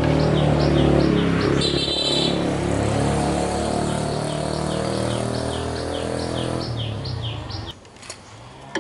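An engine running steadily, then stopping abruptly near the end. A high, repeating chirp sounds about three times a second over it.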